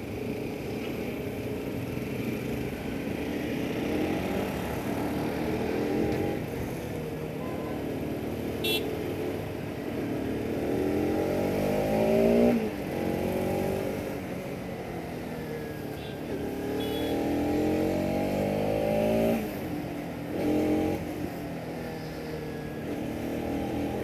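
Bajaj Pulsar RS 200's single-cylinder engine pulling hard under throttle while riding, its pitch climbing steeply through the revs and dropping suddenly at each gear change, several times. A short click about nine seconds in.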